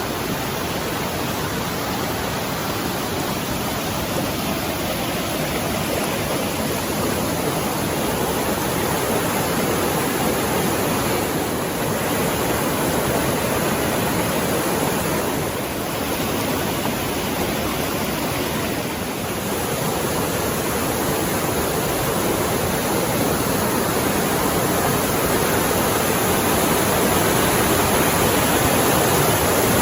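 Mountain stream rushing steadily over rocks, growing gradually louder toward the end.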